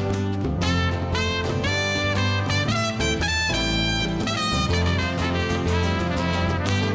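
Live band playing an instrumental break, a trumpet playing melody lines over electric bass, drums and keys.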